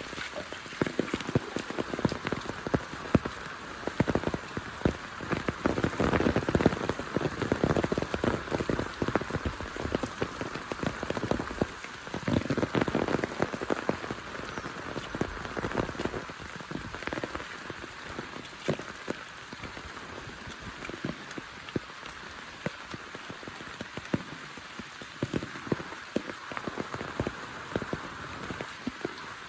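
Heavy rain falling, a steady hiss full of sharp close drop impacts. It comes down harder for a few seconds about a quarter of the way in and again near the middle, then eases a little.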